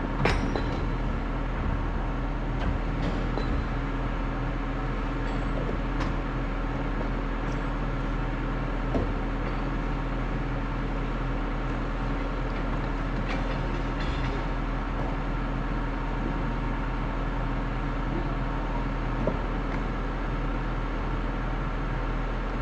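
Excavator's diesel engine running steadily, with a few sharp knocks and clanks now and then.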